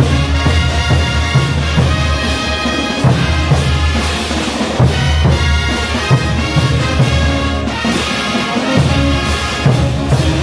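Bolivian brass band playing music for the ch'uta dance: trumpets and trombones carry the tune together over a steady bass-drum beat.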